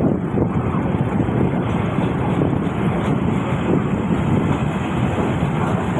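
Steady rush of wind across the microphone over the running noise of a diesel railcar train underway.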